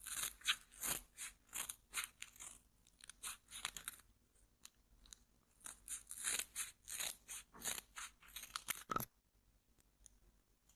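Close-miked handling of a headphone box and its packaging: crisp crinkling and crackling in two bouts with a short lull between, ending with a single knock about nine seconds in.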